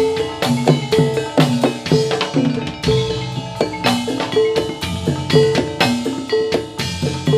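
Gamelan music accompanying a jathilan dance: struck bronze metallophones ringing note after note over drums in a steady rhythm.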